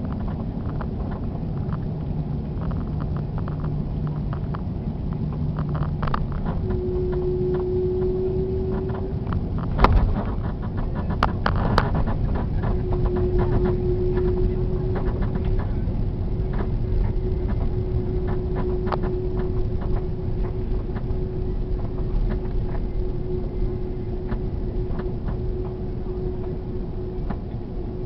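Airbus A330 landing, heard from inside the cabin: a steady low rumble with an engine hum. About ten seconds in comes a sharp thump, likely the main gear touching down, followed by a burst of cabin rattles.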